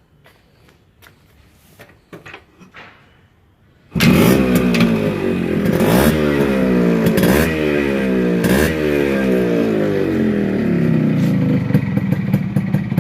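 Yamaha RX100's two-stroke single-cylinder engine starting about four seconds in, revved in three quick blips, then settling to a steady idle. A few faint clicks come before it starts.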